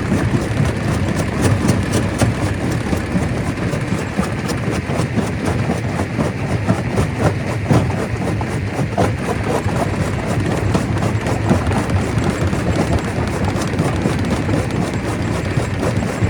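Stone crusher running and crushing rock: a continuous heavy rumble, dotted with many sharp knocks and clatters of stone.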